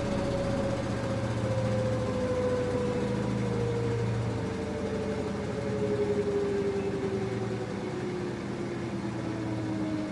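LG F10A8HDS5 front-loading washing machine, its motor whine slowly falling in pitch over a steady hum as the drum slows down from a spin.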